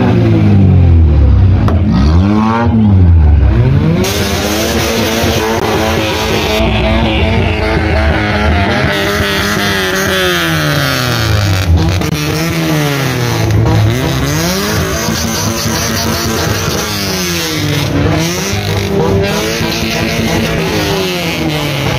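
Car engine revved hard through a loud exhaust, its pitch climbing and dropping again and again during a tyre-smoking burnout.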